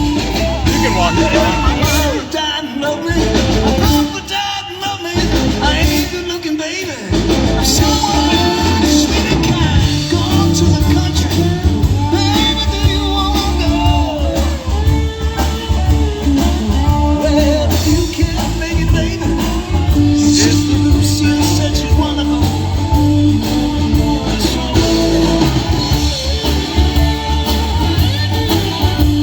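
A live rock band playing a song with a singer. About two seconds in, the bass and drums drop out for a few seconds and then come back in full.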